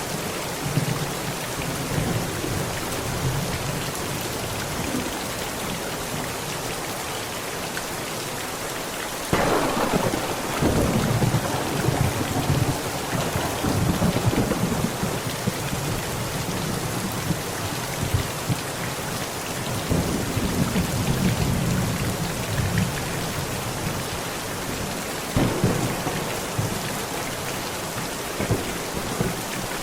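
Heavy rain falling steadily, with thunder: a loud crack about a third of the way in rolls on for several seconds, and further rumbles come about two-thirds of the way through and near the end.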